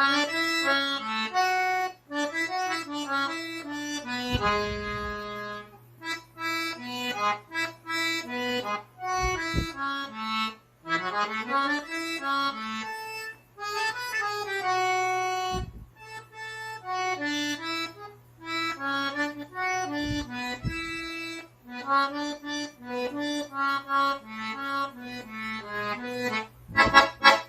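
Accordion playing a melody very slowly, note by note in short phrases with brief pauses between them, as a slow demonstration for learners.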